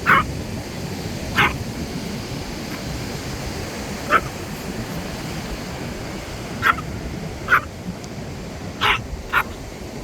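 A dog barking: about seven short barks at uneven intervals over a steady background rush.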